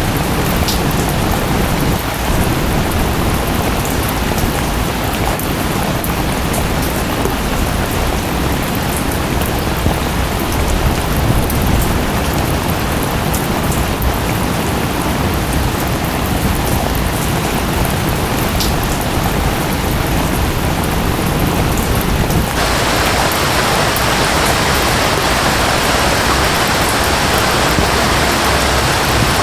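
Steady rain and waterfall noise: a dense, even hiss with a low rumble and the odd single drop tick. About three quarters of the way in it changes abruptly to a brighter, hissier water sound.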